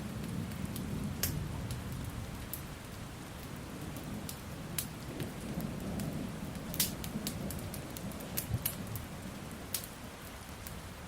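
Steady rain with low rolling thunder that swells and fades, and scattered sharp crackles and pops from a burning wood fire.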